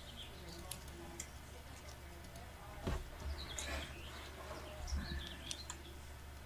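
Small birds chirping, short high calls scattered throughout, some falling in pitch, over a steady low hum. Two low thumps come about three and five seconds in.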